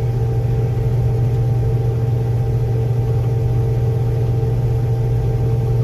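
Combine harvester running while cutting soybeans: a steady low drone with a constant hum over it, unchanging throughout.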